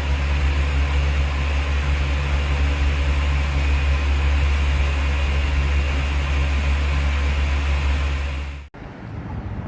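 Steady low rumble and hiss of a motor vehicle running, with a constant engine hum. It cuts off abruptly near the end, and a quieter, more uneven noise follows.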